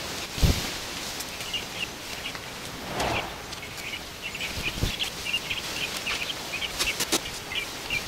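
A bird chirping over and over in quick short notes. Over it come a thump about half a second in, a brief rustle around three seconds in, and a few sharp clicks near the end, as masking paper and tape are handled on the truck's side window.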